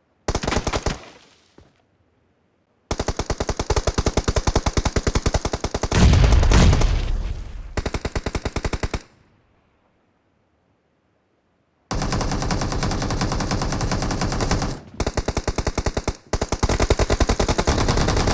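Rapid automatic gunfire from a shooter video game. A short burst comes first, then several seconds of continuous fire with a deep boom about six seconds in. After a silent gap of about three seconds, sustained fire starts again near twelve seconds in, with two brief breaks.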